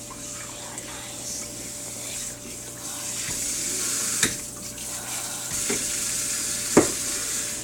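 Tap water running steadily, getting louder about halfway through and stopping right at the end, with two sharp knocks, the louder one near the end.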